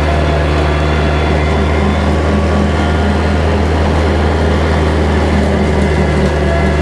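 Kubota tractor's diesel engine running steadily at working speed while bush hogging, a constant low drone with no change in pitch.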